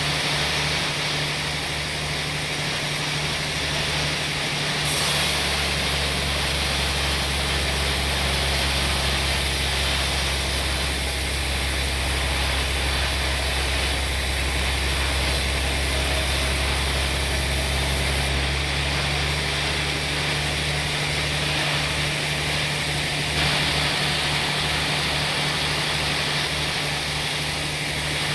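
Sawmill machinery running steadily: a motor's low hum under a constant hiss of sawing teak. The sound turns heavier and fuller from about five to eighteen seconds in.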